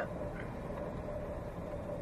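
Steady engine and road drone heard inside a lorry's cab while driving, with a faint steady whine running through it.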